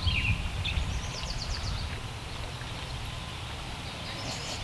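A small songbird singing in quick, high chirping trills during the first couple of seconds and again briefly near the end, over a steady low rumble of wind on the microphone.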